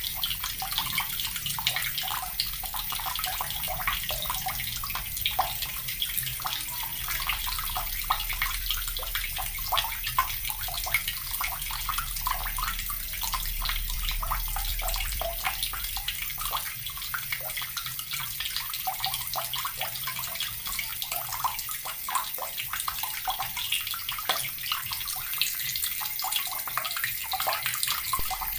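Water from a tap running steadily into a bucket, splashing and burbling continuously.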